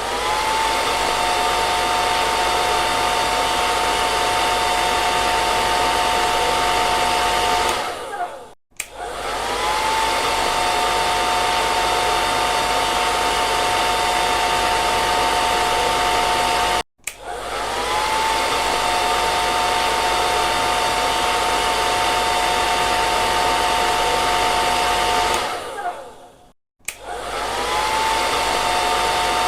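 Handheld hair dryer blowing: a steady rush of air with a high motor whine on top. About every eight seconds it cuts out briefly and starts again, the whine rising as the motor spins up before it settles.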